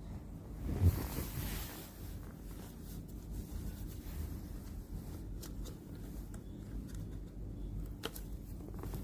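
Handling noises: rustling and scraping, with a sharp thump about a second in and a few light clicks later on.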